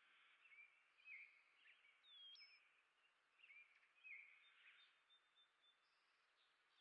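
Faint bird chirping: many short chirps and quick down-slurred notes from small birds, with one clear whistled note sliding upward about two seconds in, over a soft hiss.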